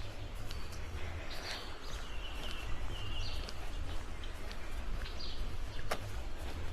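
Birds singing in short whistled notes that step between a lower and a higher pitch, over a steady low rumble of wind on the microphone; a single sharp click sounds near the end.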